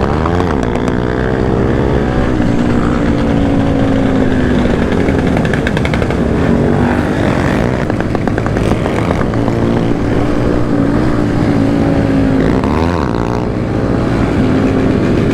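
Several motorcycle engines running at once, with one held at a steady note and others revving, giving quick rising and falling pitch near the start and again late on.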